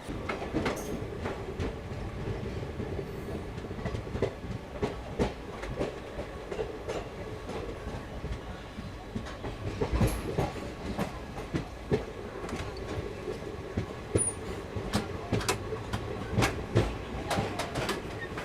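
Passenger train coach running along the track, its wheels clacking over rail joints with a steady running hum underneath.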